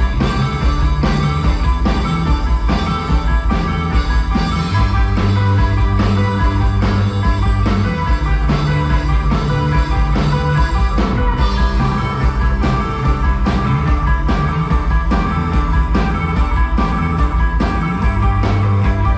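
Rock band playing live: an instrumental passage without vocals, with a steady drum beat under held bass notes and guitars.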